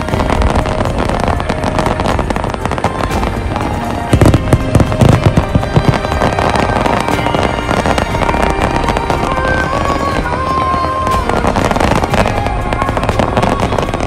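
Aerial fireworks bursting in rapid volleys of booms and crackles, heaviest about four to five seconds in. Music plays alongside throughout.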